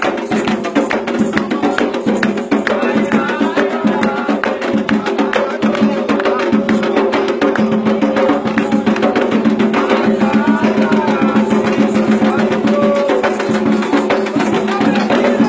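Candomblé ritual music: hand drums and a struck bell or wood block keep a fast, dense rhythm while voices sing over it.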